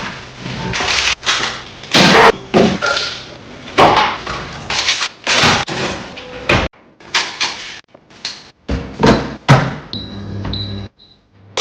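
Kitchen clatter during meal prep: a quick run of sharp knocks and bangs from containers, lids and doors, broken by several abrupt cuts. A few short high beeps come near the end.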